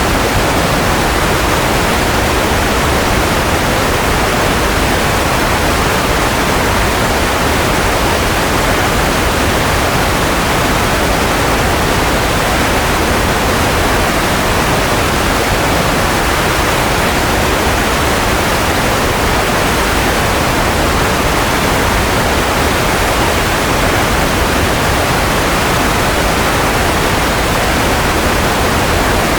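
Steady white noise: an even, unchanging hiss with no tones in it, fuller in the middle than at the top.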